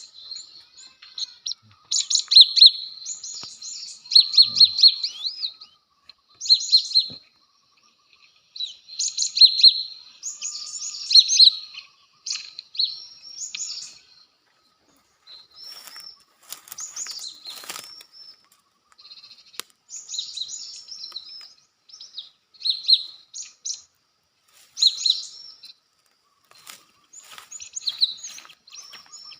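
Cinereous tits (gelatik batu) calling: short, high chirping phrases repeated again and again with brief gaps, and a few scratchy noises about halfway through.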